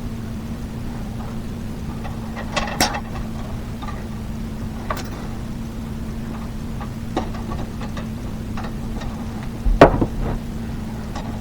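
Scattered clicks and knocks of hard objects being handled, the loudest a thump about ten seconds in, over a steady low hum.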